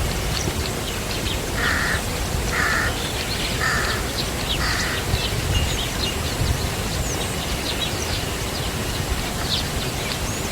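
A bird gives four harsh, caw-like calls about a second apart in the first half. Many short, high chirps from other birds run throughout, over a steady low rushing noise.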